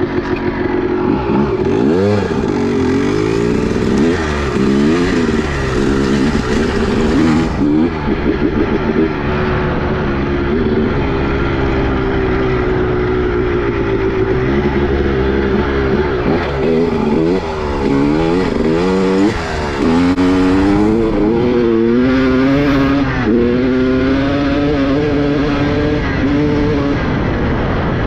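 Two-stroke motorcycle engine running under way, its revs rising and falling over and over with the throttle, steadier for a few seconds midway, then blipped up and down in quick succession.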